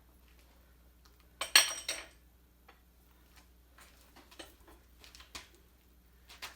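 Metal clanking of tools on the engine: one loud cluster of sharp metallic clanks about a second and a half in, then scattered light clicks and taps.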